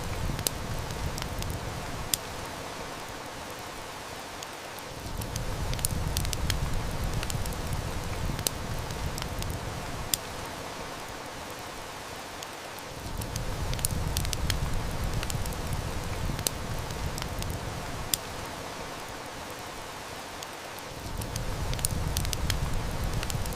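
Heavy rain hissing steadily, with a wood fire's crackles and snaps scattered over it. Underneath, a low rumble swells and fades, rising again about every eight seconds.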